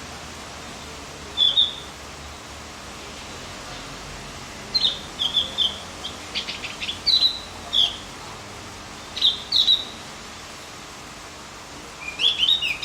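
Javan grey-throated white-eye (opior jawa) calling: short high chirps in scattered clusters of two to four, with a quick rattling trill about six seconds in, over a faint steady hiss.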